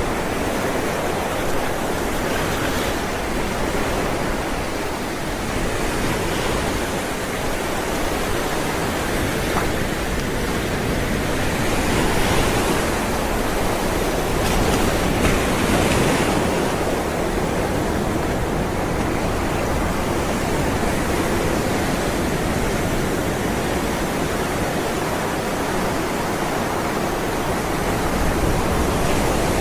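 Ocean waves rolling and breaking in a continuous wash of surf, swelling a little louder twice near the middle.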